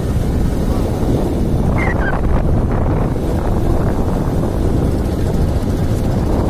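Steady rush of wind buffeting the microphone on a moving motorbike, with the engine and road noise running underneath.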